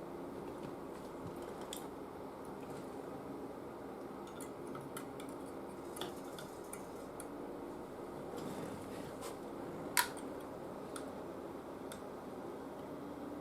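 Light, irregular metallic clicks and taps of small hand tools on the TV chassis, with a sharper click about ten seconds in, over a steady low hum.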